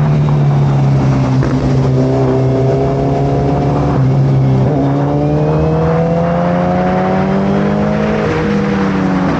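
Suzuki Hayabusa's inline-four engine running through a full Brocks carbon exhaust under acceleration. Its note climbs steadily and drops back three times, about one and a half, five and eight and a half seconds in, as at upshifts.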